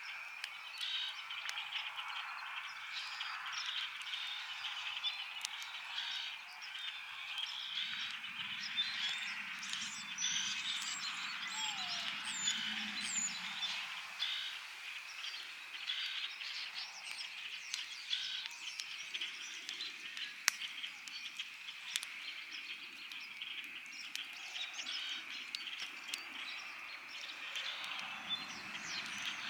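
Campfire crackling with sharp pops, one loud pop about twenty seconds in, over a dense spring frog chorus of rapid high calls. A few brief bird chirps come in near the middle, along with a low rumble that lasts several seconds.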